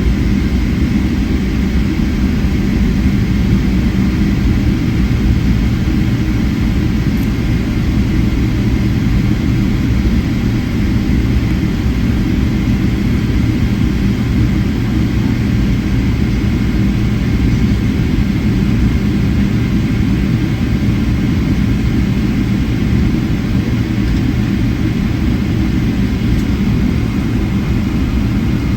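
Boeing 777-300ER's GE90-115B turbofan engines running at taxi power, heard inside the cabin as a steady low rumble with a thin, steady high whine.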